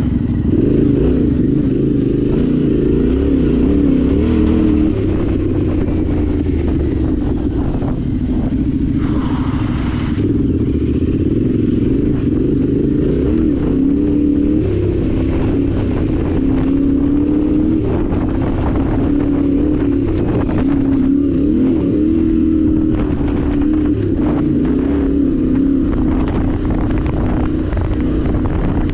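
Yamaha Ténéré 700's parallel-twin engine running steadily under way, its pitch rising and falling slightly with small changes in revs, over a constant rush of noise.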